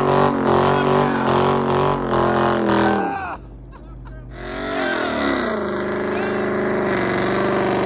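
A car engine revving hard at high rpm. It drops off sharply about three seconds in, then builds back up in pitch and holds a steady high rev.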